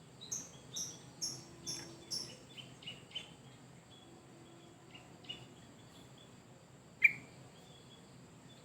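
Yellow-vented bulbul (trucuk) singing in full voice: a quick run of about five short, bright chirping notes, then scattered softer notes, and one loud sharp note about seven seconds in.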